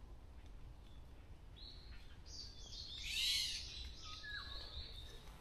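Wild birds calling: a run of high, thin whistled notes with a louder harsh, raspy call about three seconds in and a short falling note after it, over a low steady background rumble.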